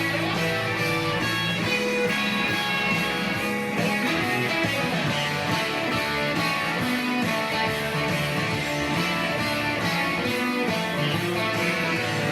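Guitar playing a rock solo, a busy run of changing notes at an even loudness.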